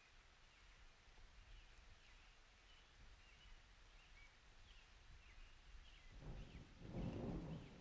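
Faint bird chirps: short calls repeating every half second or so. About six seconds in, a low rumble of thunder starts and swells.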